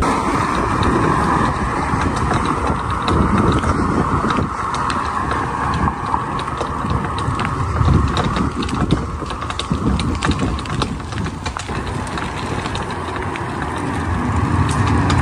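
Bicycle towing a small camper trailer, its chain and freewheel ticking and the rig rattling as it moves, with wind buffeting the microphone.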